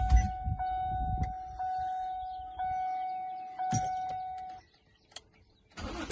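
Ford Edge door-ajar warning chime, a steady electronic tone repeating about once a second, which stops a little over four seconds in; it sounds because the driver's door is open. A click follows, and low rumbling noise starts again just before the end.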